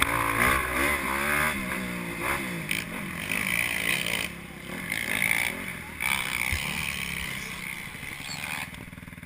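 Motocross bike engines revving, their pitch rising and falling again and again, growing quieter near the end.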